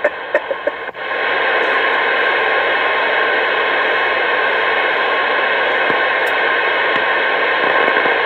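CB radio receiver static: a steady hiss heard through the radio's speaker, starting just after a transmission breaks off about a second in.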